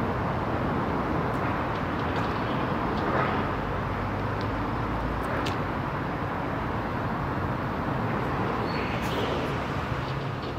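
Steady rumble of a distant passenger train running away along the line, mixed with general rail-yard and road traffic noise, with a few faint ticks.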